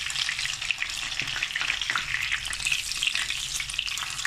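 Egg-battered lavash rolls with chicken mince frying in hot vegetable oil in a pan: a steady sizzle full of small crackles and pops.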